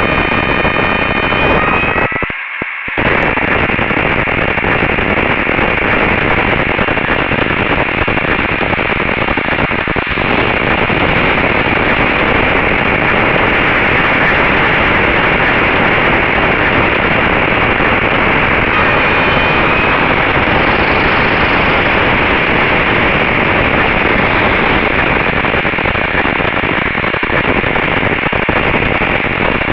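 A RunCam 2 action camera's audio track filled with loud, steady static-like hiss: the camera's audio noise fault. It cuts out briefly about two seconds in, with faint high whining tones at the start and again around two-thirds through.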